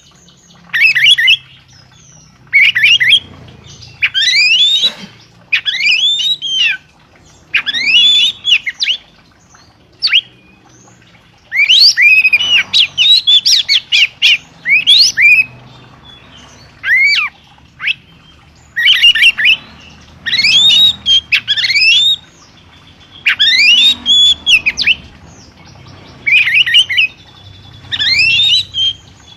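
A songbird singing in short loud phrases of rapid sweeping notes, repeated every second or two with brief pauses between, with a longer unbroken run of song near the middle.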